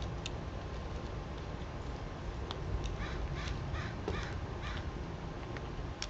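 Crow cawing: a quick run of about five caws starting about three seconds in, over a steady low rumble.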